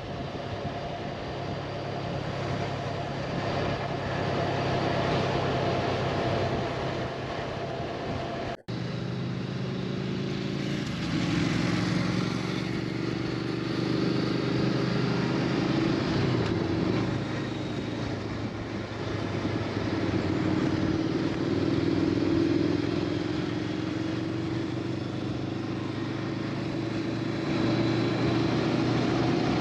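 Motorcycle engine running steadily while riding, with wind and road noise. The sound drops out for an instant about nine seconds in, and the engine note afterwards sits a little higher.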